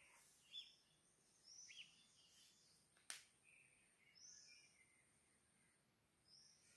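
Near silence with a few faint, short bird chirps scattered throughout, and one sharp click about three seconds in.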